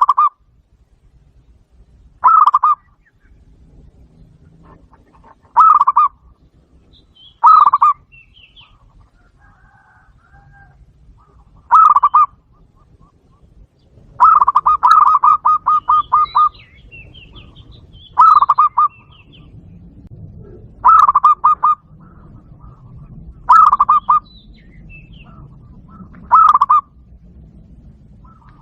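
Zebra dove call played through a Bluetooth speaker: short bursts of rapid, staccato cooing notes repeated every two to three seconds, with one longer run of notes about halfway through. Faint chirps of other birds sound between the bursts.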